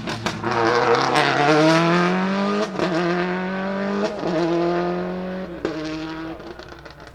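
A rally car's engine accelerating hard, with the pitch climbing and then dropping at two upshifts, about three and four seconds in. It holds a steady pitch before fading away as the car goes past. There are sharp cracks around the gear changes.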